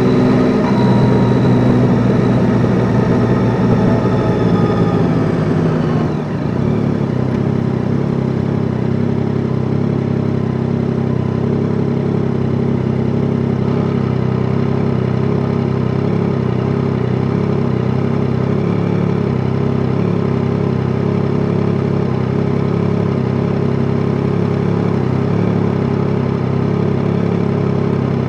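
Yamaha Tracer 9 GT's inline three-cylinder engine winding down, its pitch falling over the first six seconds, then idling steadily.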